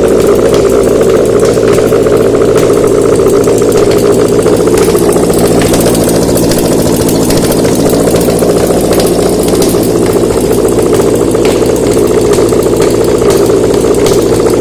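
Used Subaru EJ203 2.0-litre flat-four engine running steadily at idle on a test stand.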